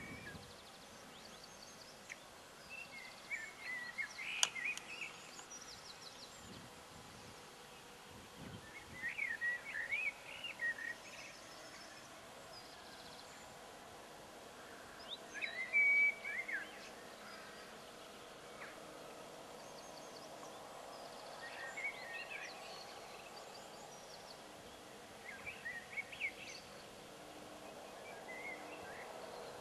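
Songbird singing short warbling phrases every few seconds over faint steady background noise, with a single sharp click about four seconds in.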